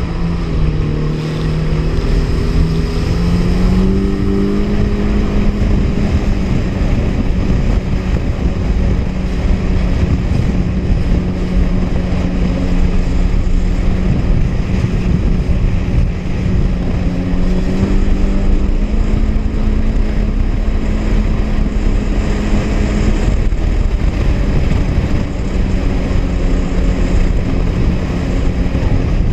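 Honda jet ski's four-stroke engine running under throttle. Its pitch rises as it speeds up over the first few seconds, then holds steady with small wavers, over constant rushing wind and water.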